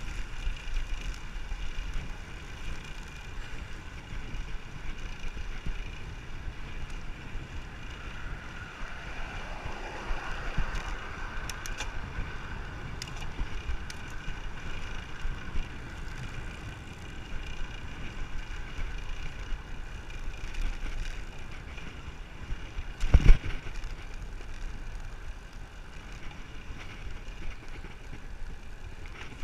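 Wind rushing over the microphone with tyre and road noise from a bicycle being ridden at speed. There is a swell in the sound about ten seconds in, and one sharp knock about three-quarters of the way through.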